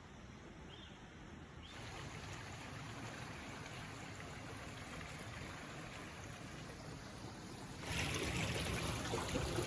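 Running water of a creek, a steady rushing hiss, which gets louder in two sudden steps, about two seconds in and again near the end.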